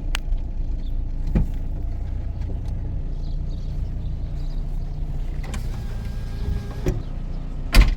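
A motor vehicle's engine running steadily with a low hum, with a few sharp clicks and knocks; the loudest knock comes just before the end.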